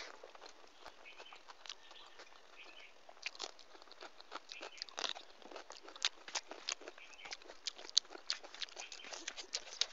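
A person eating close to the microphone: chewing and biting with a stream of small crunches and wet mouth clicks, coming thicker from about three seconds in.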